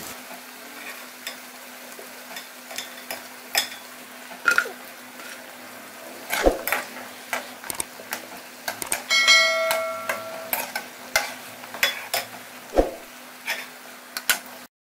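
Chicken potato toffees frying in oil in an aluminium karahi, a steady sizzle under irregular clinks and scrapes of a metal slotted spatula against the pan as the pieces are turned and lifted out. About nine seconds in, a bell-like chime rings for over a second.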